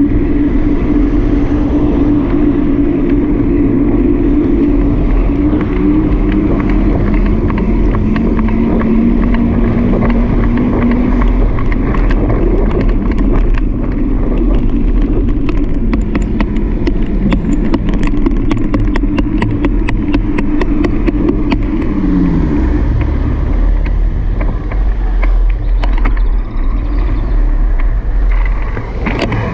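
Riding noise picked up by an action camera on a moving bike: steady wind and road rumble, with a humming tone that drops in pitch about two-thirds of the way through and a run of quick ticks in the middle.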